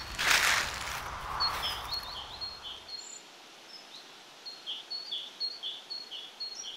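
A short rush of noise at the start fades away within about two seconds. Then small birds chirp: short high calls repeat two or three times a second, some paired with lower falling notes.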